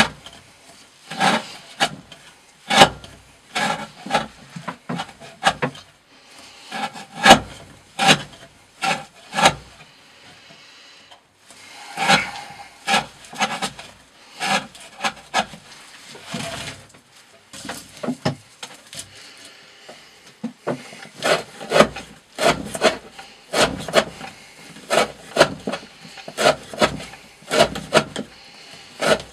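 A knife blade working in repeated short rasping strokes, about one a second, with a pause about ten seconds in and a longer lull a little after halfway.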